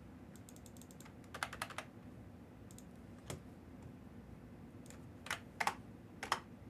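Computer keyboard being typed on in short bursts: a quick run of light taps, a cluster of louder keystrokes about a second and a half in, a single tap in the middle, and a few more sharp keystrokes near the end.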